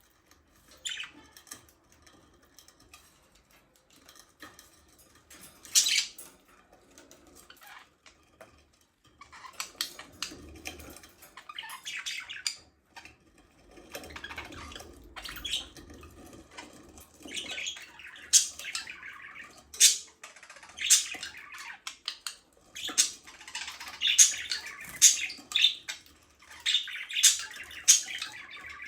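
Budgerigars chirping and squawking in short, high calls, sparse at first and becoming a busy, near-continuous chatter over the second half.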